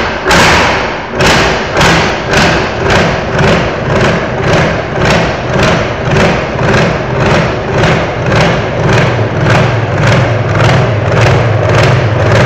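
Truck-pulling V8 engine running, with a loud, even pulsing over a steady low hum. The beats start at a bit over one a second and gradually quicken to about two and a half a second.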